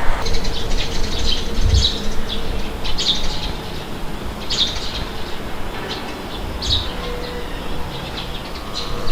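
Small birds chirping, a series of short high calls a second or two apart, over a low steady rumble.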